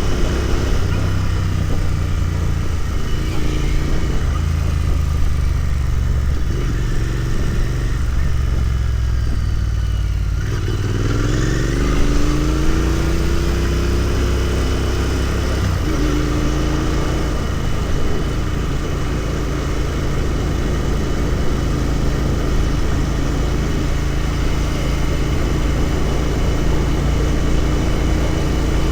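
Royal Enfield Continental GT 650's 648 cc parallel-twin engine and exhaust under way. It eases off about ten seconds in, then pulls with a rising pitch for several seconds before settling into a steady cruise.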